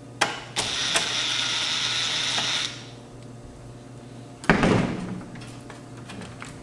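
A power screwdriver runs steadily for about two seconds, backing out a screw from the receiver's chassis. A single sharp metallic knock comes about four and a half seconds in.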